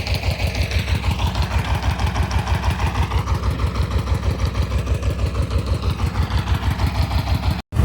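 Engine of a rice-threshing machine running steadily at work, with a fast, even beat.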